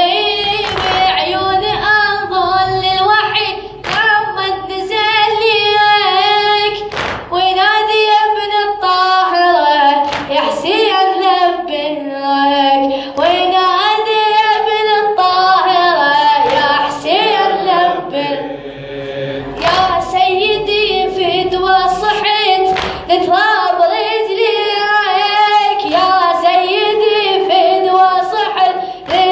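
Arabic Shia elegy poem (latmiyya) sung unaccompanied by a male reciter in a high, melismatic voice, with other voices joining, and sharp slaps heard at irregular points.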